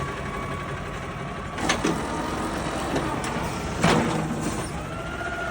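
Garbage truck's engine idling steadily, with two sharp knocks, one about a second and a half in and one near four seconds in.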